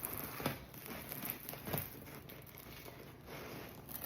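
A crusty sourdough loaf crackling and rustling as it is handled and squeezed in the hands, with a few faint, irregular crackles.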